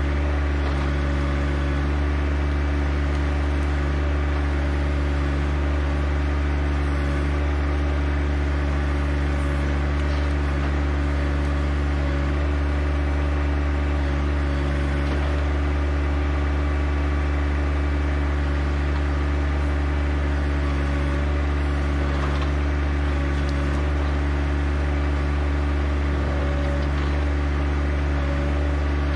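John Deere 1025R compact tractor's three-cylinder diesel engine running at a steady speed, a constant low drone with no change in pitch.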